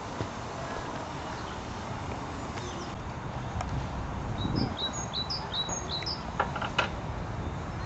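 A bird chirping a quick run of short, high notes for about a second and a half midway, over a steady outdoor hiss. Two sharp clicks come just after the chirps.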